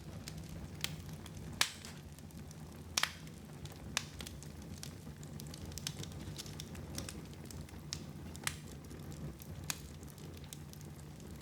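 Wood fire in a fireplace crackling: a steady low rumble of flames with sharp pops at irregular intervals, a few louder ones standing out.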